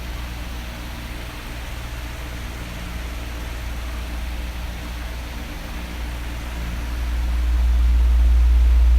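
Electric fan running: a steady airy whoosh with a low hum beneath it, growing louder and heavier about seven seconds in.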